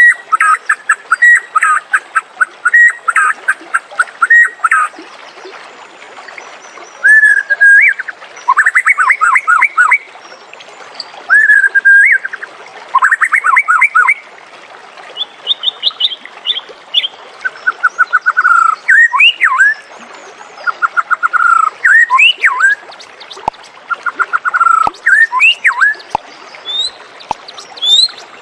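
White-rumped shama singing: phrases of a second or two made of rapid repeated notes, broken by short pauses, with sharp upward-sweeping whistles in the second half.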